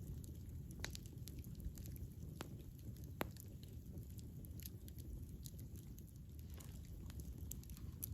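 Wood campfire crackling: scattered sharp pops over a steady low rumble of burning, the sharpest pop about three seconds in.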